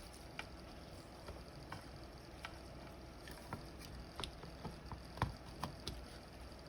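Irregular small clicks and taps of a vintage flip clock being handled, its mechanism going back into the housing, about one or two sharp ticks a second with a louder knock about five seconds in.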